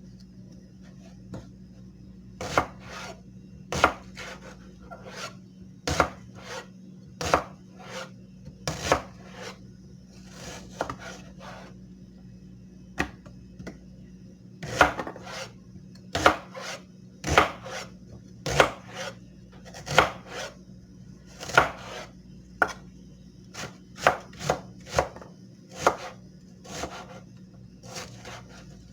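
A knife working against a hard surface in short, sharp strokes, irregular and roughly one a second, coming closer together in the second half. A steady low hum runs underneath.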